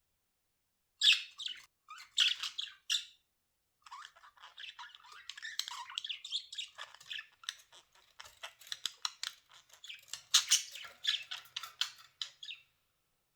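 Pet budgerigars chattering and squawking: a few loud, separate calls in the first three seconds, then a long run of rapid warbling chatter.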